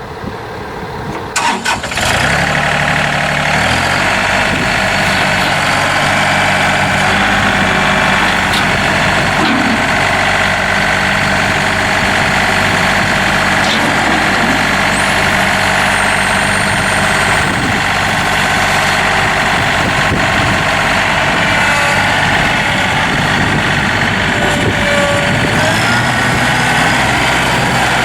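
John Deere 3025E compact tractor's three-cylinder Yanmar diesel cranking and catching about two seconds in, then running steadily.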